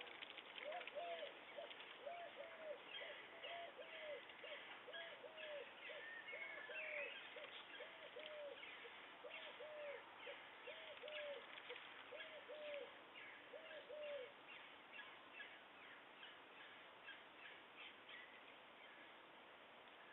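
A bird calling in a quiet run of about twenty short, low, arched notes, roughly one and a half a second, that stop about two-thirds of the way through. Small birds chirp and trill higher up throughout.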